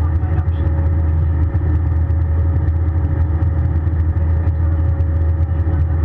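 Steady cabin noise inside an Airbus A320 airliner: a loud, unchanging low rumble of engines and airflow with a steady mid-pitched hum running through it.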